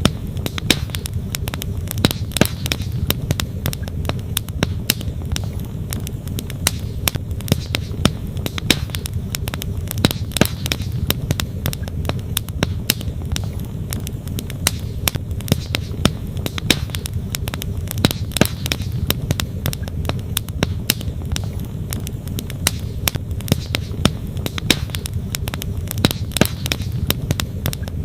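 Wood fire crackling and popping, with sharp, irregular snaps of burning logs over a steady low rush of flowing stream water.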